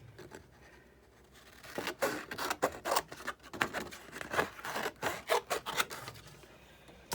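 Cardstock being handled: a quick, irregular run of short scraping and rustling sounds starting about two seconds in and dying away after about five seconds.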